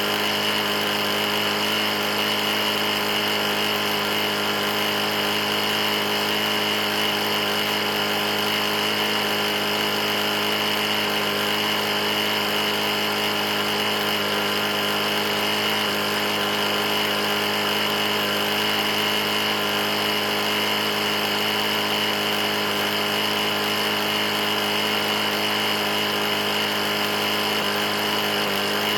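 Briggs & Stratton E450 mower engine running steadily at constant speed, with no change in pitch or level. The engine has a bad knock, which the owner calls knocking pretty bad, and it is being run until it locks up.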